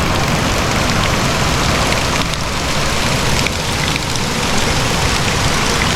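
Steady rush of a nearby waterfall: falling water making a loud, even noise.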